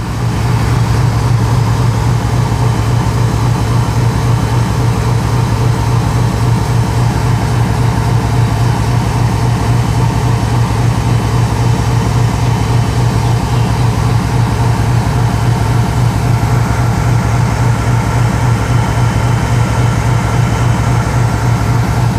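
Locomotive engine running steadily at a low throb, with a fast even pulse and no change in speed.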